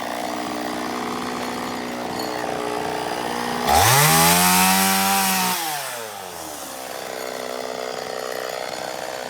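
Two-stroke chainsaw idling, revved up sharply once about four seconds in, held high for about two seconds, then dropping back to idle.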